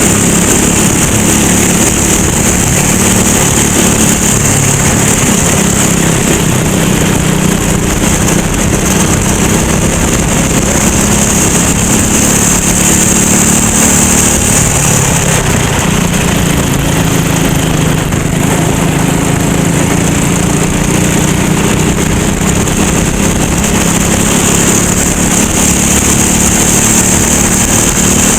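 Racing go-kart engine running at speed, its pitch dropping and climbing again as the kart slows and accelerates, over a steady high hiss.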